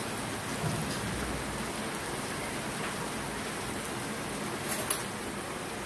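Chicken pieces and sliced onion frying in oil in a pan: a steady sizzle, with a brief click about five seconds in.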